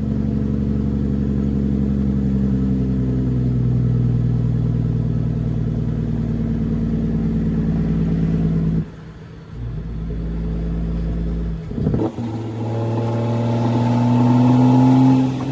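Straight-piped CAT C13 diesel of a Kenworth W900B dump truck running under way, its pitch easing down a little in the first few seconds. The engine sound drops away abruptly about nine seconds in. About twelve seconds in, a different steady, tone-rich sound with a slowly rising pitch takes over.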